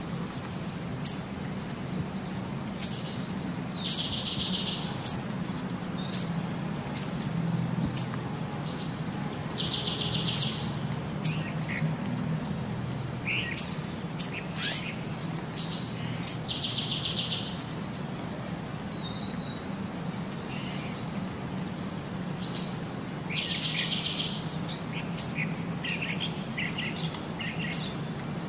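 Bird chirping: many short sharp chirps, with a short raspy trill recurring about every six to seven seconds, over a low steady hum.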